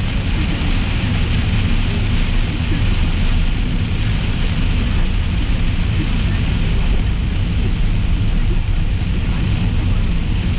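Heavy rain falling on a moving car, heard from inside the cabin: a steady hiss over a constant low road and engine rumble.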